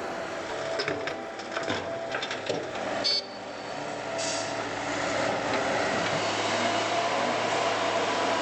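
A heavy vehicle or machine running, with scattered knocks and clatter over the first three seconds. About three seconds in comes a brief, sharp, high-pitched sound, the loudest moment. It settles into a steady engine hum from about five seconds on.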